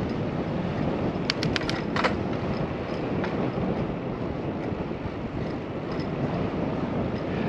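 Wind rushing over a GoPro microphone and road noise while riding a bicycle, with a quick run of about five clicks a little over a second in.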